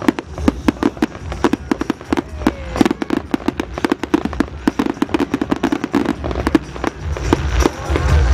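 Fireworks display: a rapid, continuous run of sharp bangs and crackles from bursting shells, several a second, with a low rumble building near the end.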